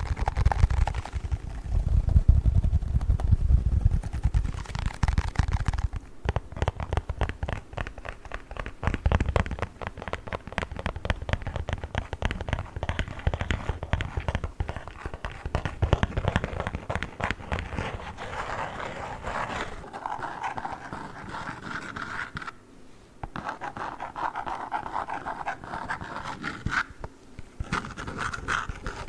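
Fingers scratching and rubbing on a play foam package close to the microphone, in fast, dense strokes. The first few seconds carry heavy, low rubbing; later it turns to a crinkly rustle, broken by two brief pauses.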